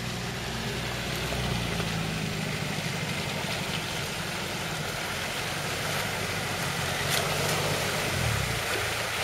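Land Rover Defender 90's engine running at low revs as it crawls through a deep mud hole, the revs rising briefly near the end.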